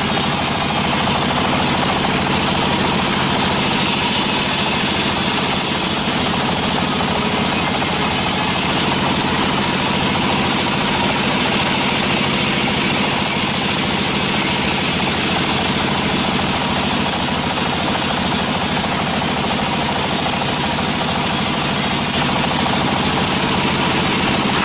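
Sawmill machinery running steadily with a loud, even mechanical noise and no letup.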